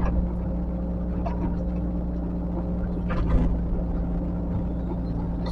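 Heavy-equipment diesel engine running steadily with a low drone, with a brief faint scrape or rustle about three seconds in.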